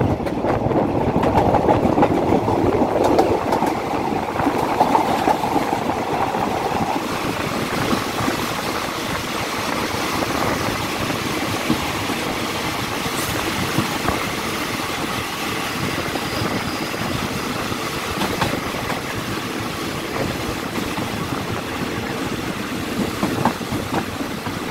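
Diesel-hauled passenger train rolling along the track, heard from beside its coaches: a steady rolling noise of steel wheels on the rails with occasional faint clicks.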